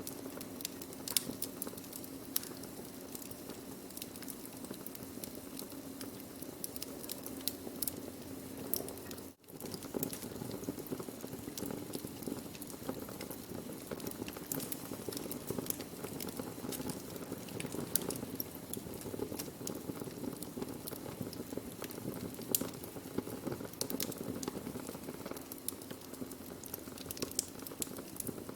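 Burning wood crackling: a steady low rumble of flames with frequent sharp, irregular pops. The sound cuts out for an instant about a third of the way in.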